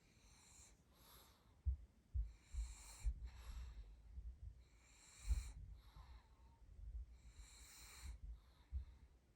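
A sleeping pug snoring, with slow, noisy breaths about every two seconds. A few low, dull thumps are louder than the breaths.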